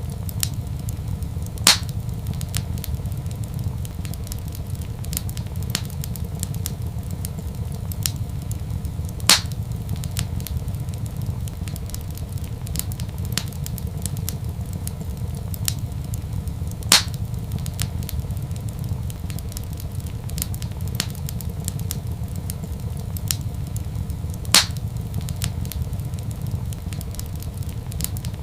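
Wood fire crackling in a fireplace: a steady low rumble under many small crackles, with four louder pops about every seven and a half seconds.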